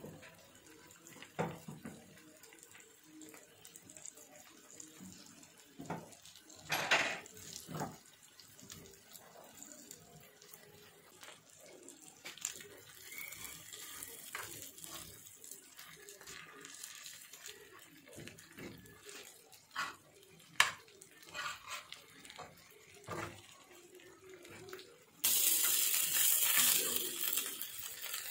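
Chicken pieces with melting butter frying on a tawa griddle: a faint sizzle with occasional clicks of tongs against the griddle, then a much louder, steady sizzle near the end.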